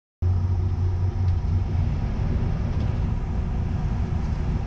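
Steady low rumble of an ÖBB Nightjet sleeper train under way, heard from inside a sleeping-car cabin; it cuts in suddenly just after the start.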